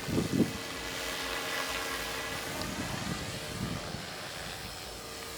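Radio-controlled model airplane in flight, its motor a steady drone. A brief low rumble comes right at the start.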